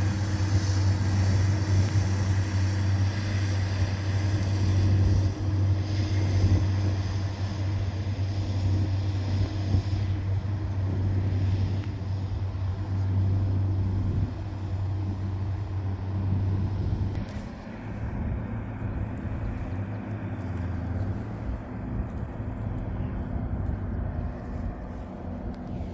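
Farm tractor's diesel engine running steadily under load with a deep, even drone, turning somewhat quieter about two-thirds of the way through.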